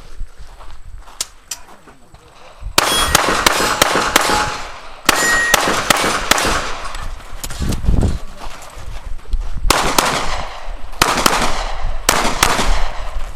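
Pistol shots fired in rapid strings, starting about three seconds in, with steel targets clanging and ringing as they are hit.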